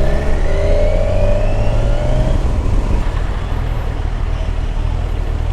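Kawasaki Ninja 1000SX's inline-four engine pulling under acceleration, its pitch rising for about two seconds and then holding steady, with wind noise over the rider's helmet.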